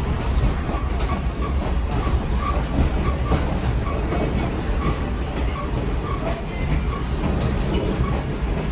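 Passenger excursion train rolling along the track, heard from aboard: a steady low rumble of the car and its wheels on the rails, with light clicks repeating about twice a second.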